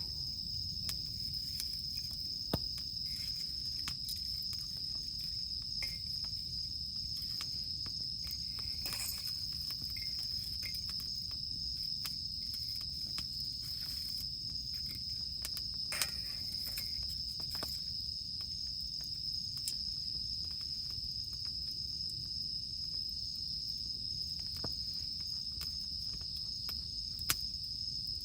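Cicadas droning in one steady high-pitched tone, with a few sharp pops from a wood campfire and a low steady rumble beneath.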